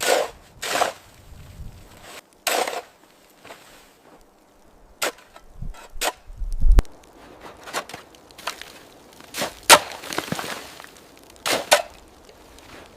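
A string of sharp hits and short swishes at irregular intervals, about a dozen in all, with a few low thuds around the middle.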